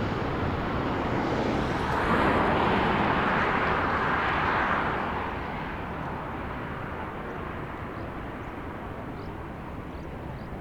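Jet airliner passing, a loud rushing engine noise that peaks about two to five seconds in, then fades away.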